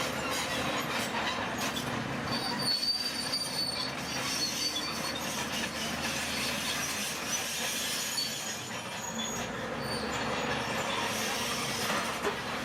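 Crawler bulldozer working: its steel tracks squeal and grind in shrill bursts over the steady running of the diesel engine, with occasional metallic clanks.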